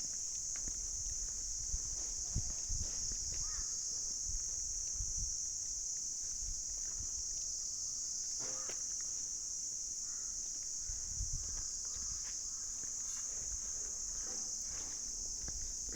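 Steady high-pitched drone of an insect chorus, with scattered low knocks and thumps beneath it.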